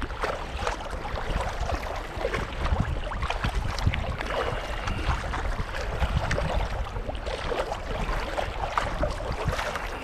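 Kayak paddles dipping and pulling through lake water, a steady run of small splashes and drips, with a low rumble of wind on the microphone underneath.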